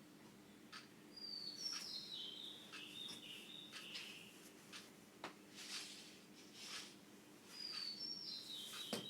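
A bird singing a short phrase that steps down in pitch, heard twice, about a second in and again near the end, amid scattered short chirps, over a faint steady low hum.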